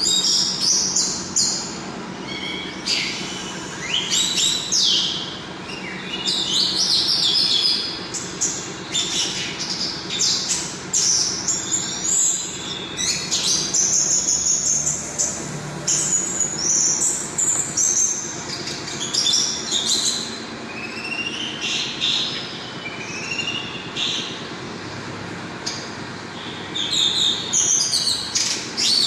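Orange-headed thrush (anis merah) singing vigorously and almost without pause: long runs of rapid, varied high whistled and chattering phrases, broken by short lulls, over a steady low hum.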